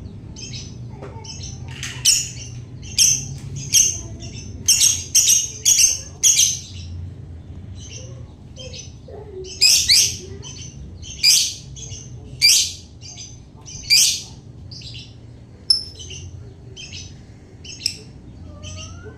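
Lovebird singing in the chattering 'ngekek' style: a long run of shrill chirps and squawks, the loudest coming in clusters about two seconds in and again from about ten to fourteen seconds in, with softer chirps in between.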